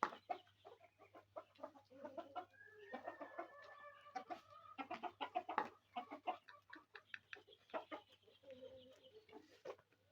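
Free-range chickens clucking softly, with many short sharp ticks, and one longer drawn-out hen call about three seconds in, over a steady low hum.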